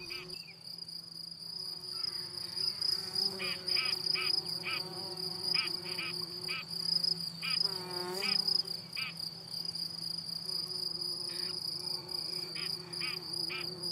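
Crickets singing in a steady high-pitched trill, with short chirps scattered over it and a brief sweeping call about eight seconds in.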